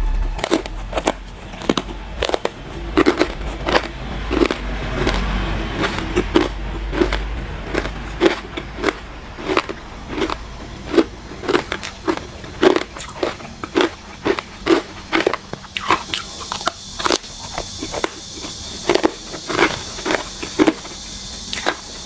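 Hard ice being bitten and crunched between the teeth close to the microphone, a steady run of sharp separate crunches about one to two a second.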